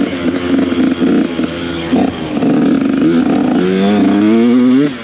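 Two-stroke dirt bike engine with a Mikuni TMX38 carburettor running unevenly, its revs rising and falling, with a long climb in pitch near the end. It is bogging and loading up at low revs, caused by a failed jet block gasket in the carburettor.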